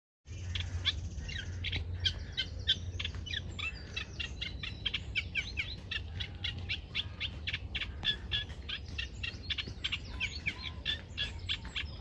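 A songbird singing a fast, continuous song of rapid chirps and trills, with a steady low rumble underneath.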